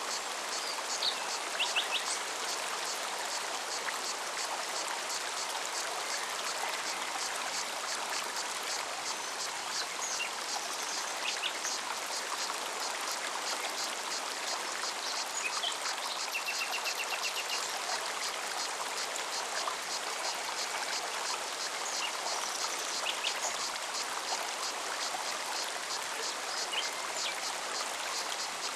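Forest stream flowing steadily over rocks, with a cicada's fast, even pulsing high above the water and short bird chirps now and then.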